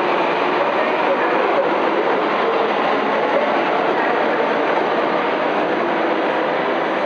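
Delhi Metro train running, a steady, even noise of wheels on rail and traction equipment without pauses or changes.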